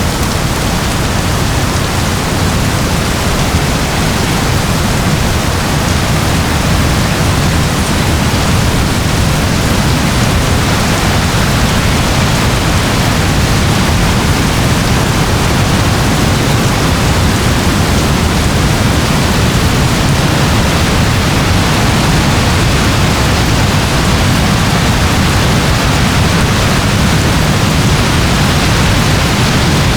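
Steady rain with a deep low rumble underneath, an even hiss with no separate drops, splashes or thunderclaps standing out.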